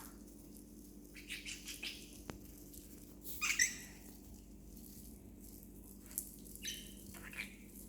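Budgerigar giving short, scratchy chirps, the loudest about halfway through and two more near the end, amid light rattling clicks from its play with a toy.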